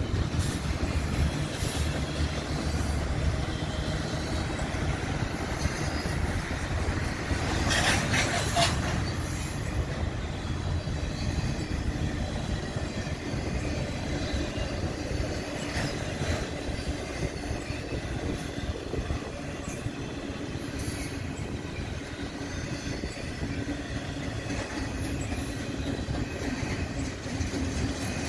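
Union Pacific freight train rolling past, a steady rumble and rattle of wheels on rail, with a brief metallic wheel screech about eight seconds in.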